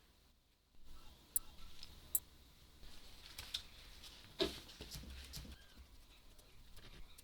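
Faint, sparse clicks and light knocks, the loudest a little over halfway through.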